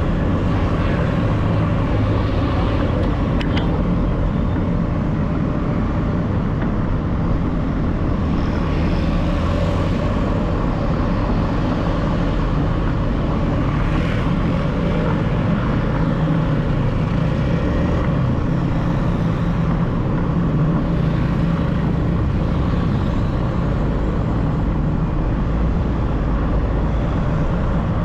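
Steady city traffic and road noise heard while riding through the streets, with a heavy continuous low rumble.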